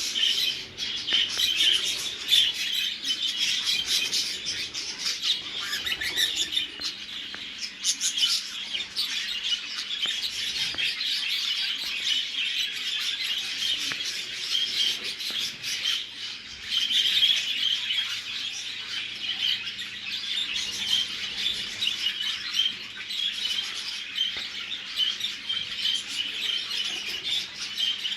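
Show budgerigars chattering and chirping continuously, a dense overlapping warble of many birds.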